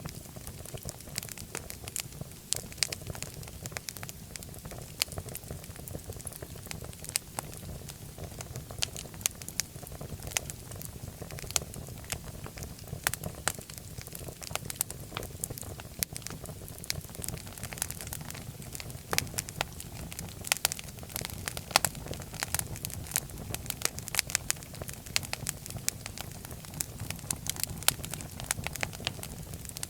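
Fireplace fire crackling: many irregular sharp pops and snaps, several a second and some louder than the rest, over a steady low rumble of the flames.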